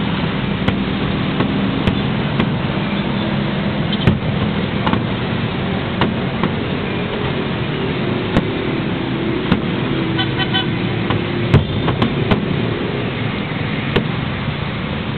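Aerial fireworks shells bursting: about a dozen sharp bangs at irregular intervals, three of them close together about twelve seconds in, over a continuous background din with low humming tones.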